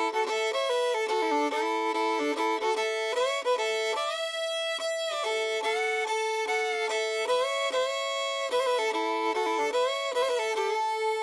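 Solo fiddle playing a melody over a held drone note, the unaccompanied intro of a country song.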